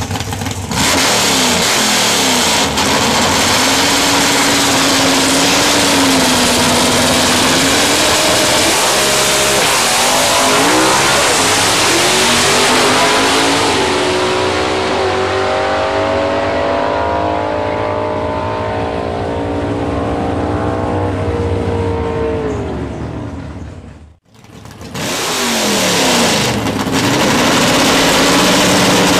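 Super Stock 327 small-block V8 in a drag-racing Chevy Nova running loud. Its note wavers at first, climbs, then falls steadily with the high end fading over several seconds. It breaks off abruptly near the end and the engine comes back, wavering again.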